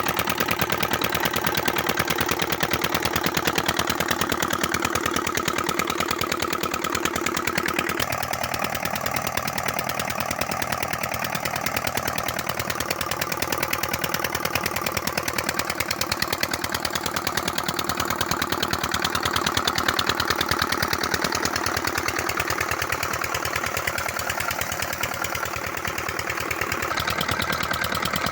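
Diesel engine driving a tube well pump, running steadily with an even, rapid firing beat. A steady tone underneath it stops about eight seconds in.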